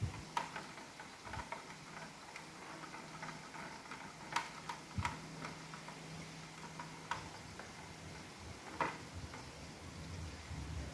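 Irregular small clicks and taps of iRobot Roomba plastic parts being handled and fitted together by hand, with a few sharper knocks. A faint low hum runs for a few seconds in the middle.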